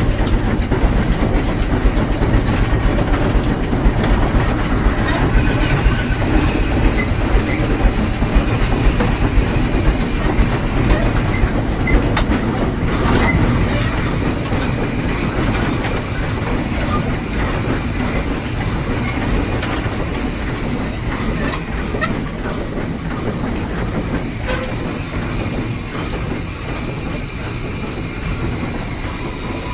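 Heisler geared steam locomotive running along the track, heard from inside its cab: a steady mechanical rumble with wheels clacking over rail joints and a hiss of steam. It gets a little quieter about halfway through.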